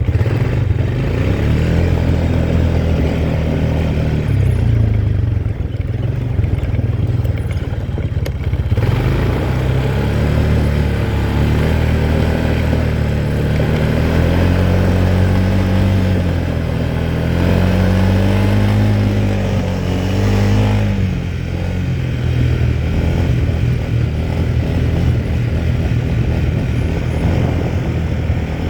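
Quad bike engine running while being ridden, its revs rising and falling repeatedly in the middle stretch, then settling steady.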